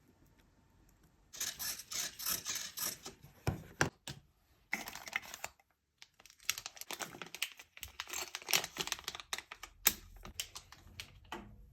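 Typing on a computer keyboard: quick runs of key clicks in bursts, starting about a second and a half in, with a brief pause about six seconds in.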